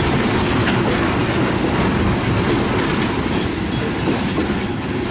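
Container freight train rolling past, its steel wheels clattering over the rail joints over a steady rumble.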